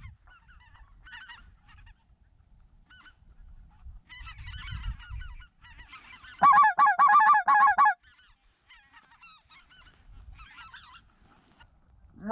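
Goose honking: scattered faint honks, then a loud run of rapid, closely spaced honks for about a second and a half, starting about six and a half seconds in.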